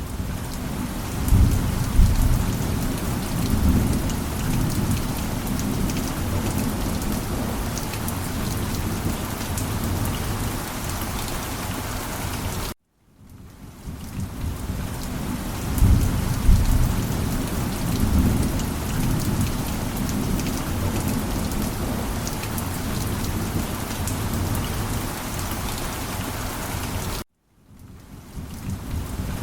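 Steady heavy rain with low rolling thunder rumbles. The rumbles swell about two seconds in and again around sixteen seconds. The whole sound cuts out abruptly about thirteen seconds in and again near the end, then fades back in each time.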